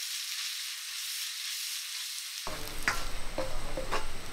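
Onions, tomato and spice powders sizzling in hot oil in an iron wok. From about two and a half seconds in, a metal spatula scrapes and knocks against the wok several times as the mix is stirred.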